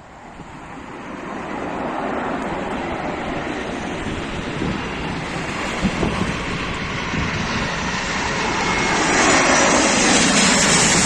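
Airbus A220-300 jet on approach, its Pratt & Whitney PW1500G geared turbofans growing steadily louder as it comes nearer, with a high engine whine coming in near the end.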